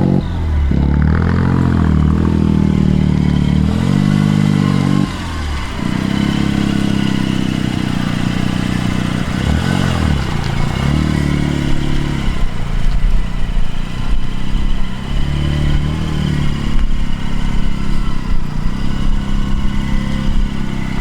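A car's engine being revved again and again, the revs swinging up and down and held between blips.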